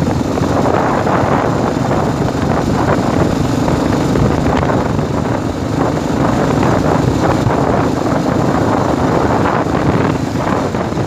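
Royal Enfield Classic 350's air-cooled single-cylinder engine running steadily at cruising speed in fifth gear, around 80 km/h, mixed with heavy wind rushing over the microphone.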